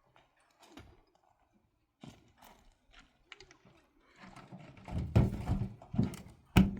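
Irregular knocks and clattering, with several heavier thuds in the last two seconds, the loudest near the end.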